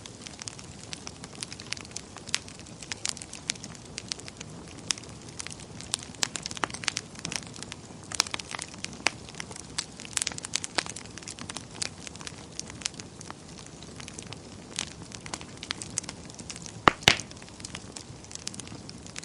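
Wood fire burning in a fireplace: irregular sharp crackles and pops over a soft steady hiss, with a louder pair of pops near the end.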